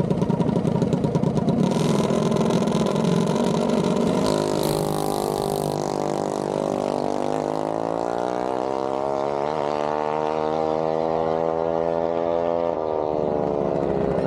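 Mini bike engine running hard, then accelerating, its pitch climbing steadily for several seconds before dropping suddenly near the end. There is a brief hiss about five seconds in.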